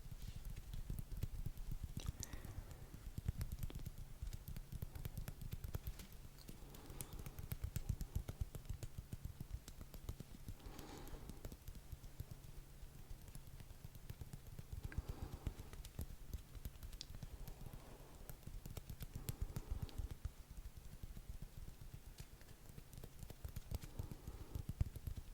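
Rapid, irregular tapping and clicking close to a microphone, a dense stream of small taps.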